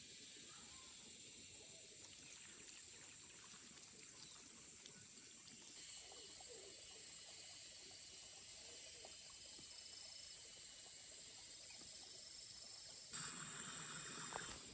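Faint outdoor ambience: a steady high insect drone. About a second and a half before the end it turns abruptly louder, to a rustling hiss.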